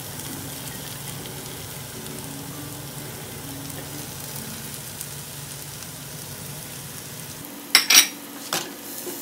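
Fried tilapia pieces and a coconut, onion and chilli masala sizzling in oil in a frying pan, a steady frying hiss. Near the end come a few sharp knocks.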